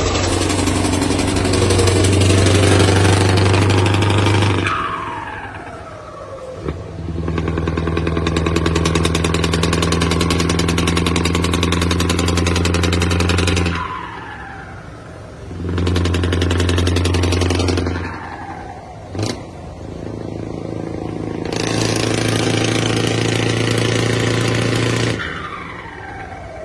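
Scania truck diesel engine revved and held at high revs four times, each time released so the pitch falls away as it winds down. A sharp crack comes twice, about a third of the way in and again near three quarters.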